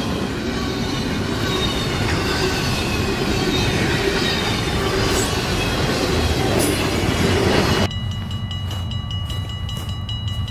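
Freight train rolling past: a dense, steady rumble of wheels on rail with faint high wheel squeal. About eight seconds in the sound cuts off abruptly to a quieter, steady low engine rumble.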